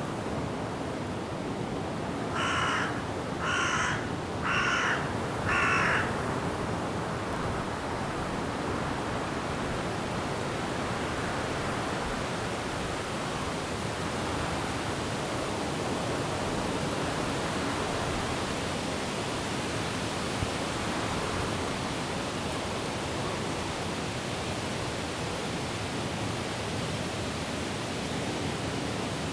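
Steady rush of wind and rain in trees, with a crow cawing four times in quick succession a few seconds in.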